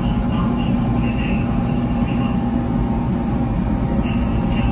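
700 Series Shinkansen running at speed: a steady, unbroken low rumble of wheels and running gear with a constant hum.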